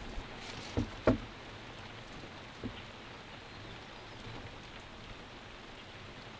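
Steady rain falling, with a few dull knocks about a second in, the loudest just after the first, and one more a little later.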